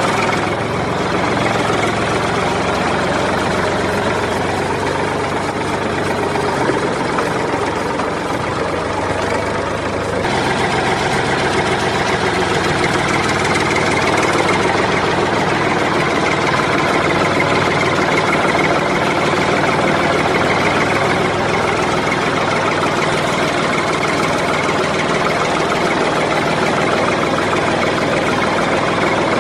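Steady engine-idling sound that runs without a break, changing in tone about ten seconds in.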